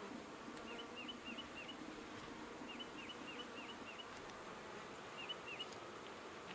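Honeybees buzzing around an opened Langstroth hive, a steady low hum, with a series of short high chirps over it.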